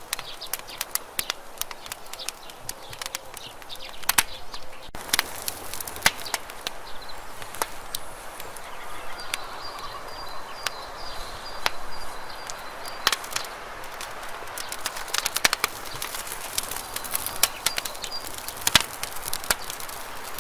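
Campfire crackling: irregular sharp pops and snaps, some close together and some louder, over a soft steady hiss.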